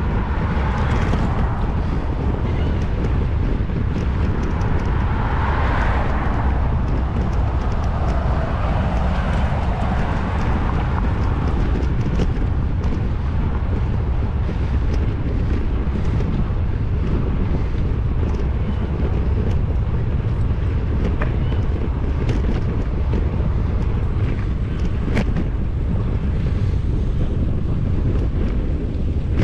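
Wind rumbling on a GoPro microphone during a bicycle ride, steady throughout, with the noise of a passing vehicle swelling and fading about five to ten seconds in and scattered light clicks.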